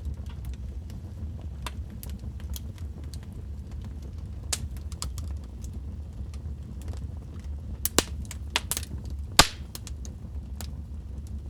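Wood fire crackling in a fireplace: a steady low roar of the flames with scattered sharp pops and snaps. A cluster of louder pops falls about eight to nine and a half seconds in.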